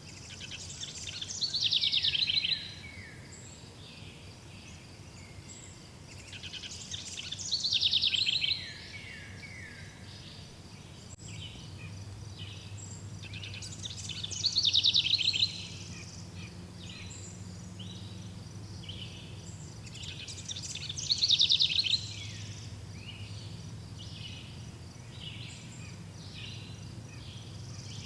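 A songbird repeats the same loud song phrase four times, about every six to seven seconds: a rapid trill that sweeps downward. Between the phrases, other birds give shorter chirps over a steady low hum.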